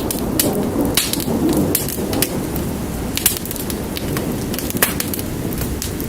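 Wood fire crackling with sharp, irregular pops, over steady rain and a low rumble.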